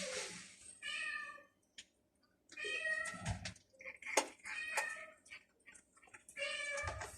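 Cats meowing, about four separate meows spaced a second or two apart, with a couple of sharp clicks between them.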